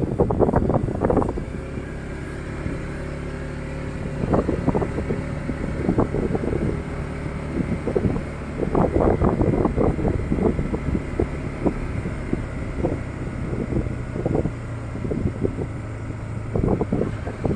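Motorcycle engine running at a steady speed while riding, with irregular knocks and rattles and wind buffeting on the microphone.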